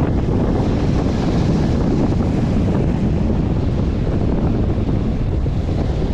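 Strong wind buffeting the microphone in a loud, steady low rumble, with sea surf in the background.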